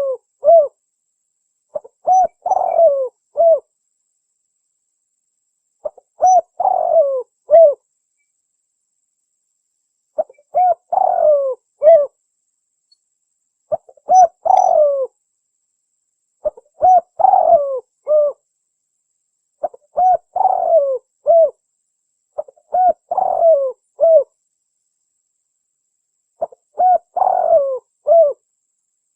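Spotted dove (tekukur) cooing: the same short phrase of three or four deep coo notes, repeated about every three to four seconds with silent gaps between.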